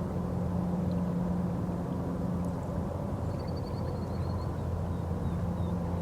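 Boat engine running steadily with an even low drone. A short high-pitched trill of rapid notes sounds about halfway through.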